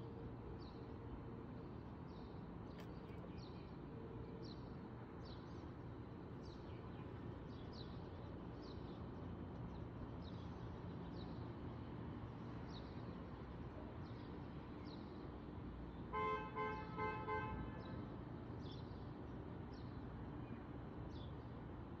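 Small birds chirping, short high notes repeated about once or twice a second, over a steady low street noise. About sixteen seconds in, a car horn gives four quick toots, the loudest sound here.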